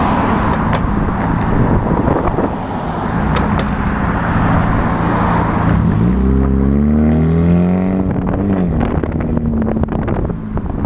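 Honda Civic four-cylinder running through an exhaust with the muffler deleted, under way. About six seconds in the engine revs up sharply, climbs for a couple of seconds, then drops back near the nine-second mark.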